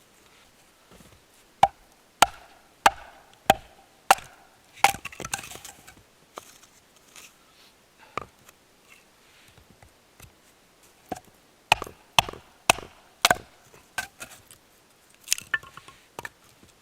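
Logs being split into kindling with sharp wooden knocks, struck in quick runs about twice a second, with a pause in the middle. The splitting opens the logs to reach the drier wood inside.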